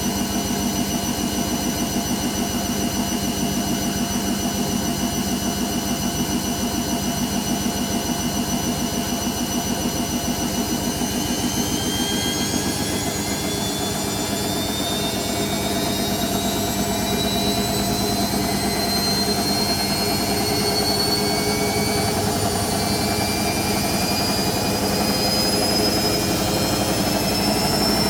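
Hoover Nextra HNL71463D washing machine spinning. The drum and motor run at a steady speed at first, then from about ten seconds in the motor whine rises steadily in pitch as the final spin speeds up.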